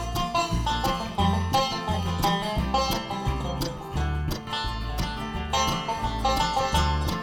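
A bluegrass band plays an instrumental break between verses, with banjo picking over guitar and low bass notes that land about twice a second.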